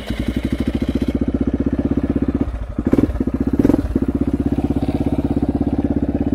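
Single-cylinder four-stroke ATV engine idling with an even, quick pulse, with two short louder bursts about three seconds in.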